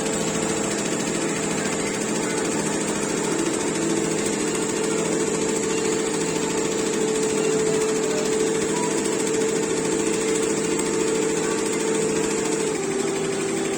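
Embroidery machine stitching continuously: a steady, even mechanical run with a constant hum, which drops a little in pitch near the end.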